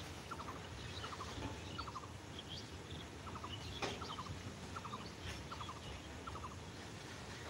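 Loaded goods train of covered wagons rolling past, a steady low rumble of wheels on rail. Over it, a quick rattling chatter of four or five clicks recurs about every two-thirds of a second, with one sharper knock about four seconds in.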